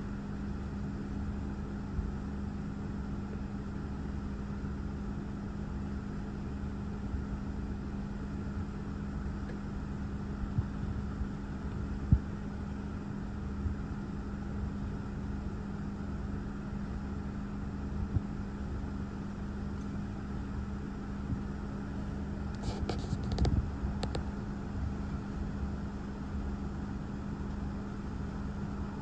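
A car's engine idling with a steady hum, heard from inside the cabin over an uneven low rumble. A brief cluster of clicks and rattles comes a little over twenty seconds in.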